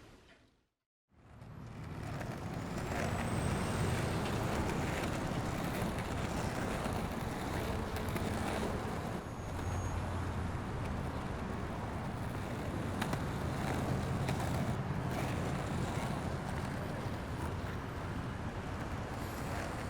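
Steady road traffic noise, fading in after a moment of silence at the start.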